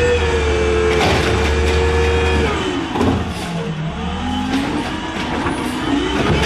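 Peterbilt 320 garbage truck's diesel engine revved hard and held at high revs, then let off about two and a half seconds in, its pitch falling toward idle before it is revved back up near the end.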